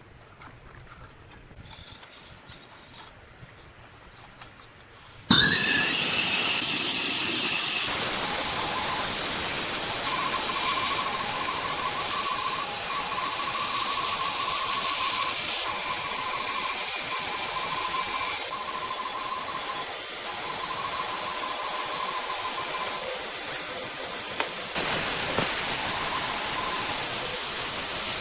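An electric woodworking power tool starts about five seconds in, its pitch rising quickly as the motor spins up, then runs steadily with a high whine and hiss.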